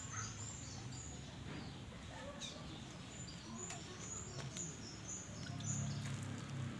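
Small birds chirping in short, high, repeated notes, over a steady low hum.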